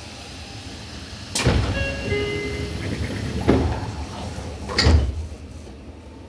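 Sliding doors of a Seibu 6000 series commuter car closing at a station stop. A sudden rush of air about a second and a half in, a few short tones, then a thud and a heavier thud a little over a second apart as the doors shut.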